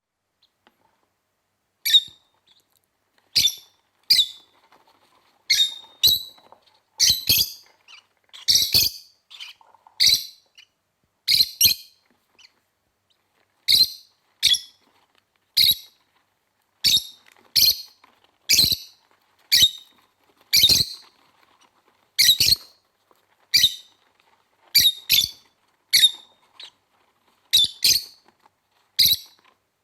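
Peach-faced lovebirds calling in the nest box: short, sharp chirps repeated about once a second, sometimes in quick pairs.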